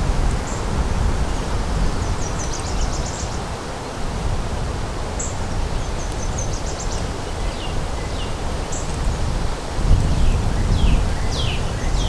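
Wind blowing over the microphone with a steady low rumble that gusts harder near the end. Small birds chirp over it in short high trills and quick downslurred notes, more of them toward the end.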